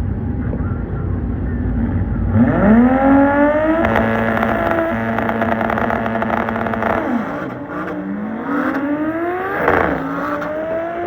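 Drag-racing car launching and accelerating hard down the strip: a low engine rumble, then the engine pitch climbing steeply a couple of seconds in, holding high, and dropping at gear changes about seven and ten seconds in before climbing again.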